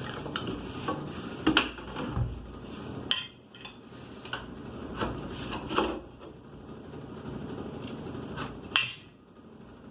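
Irregular metallic knocks and clinks from parts and tools being handled during work on a hot dog cart lid, over a steady background hum. The sharpest knocks come about a second and a half in and near the end.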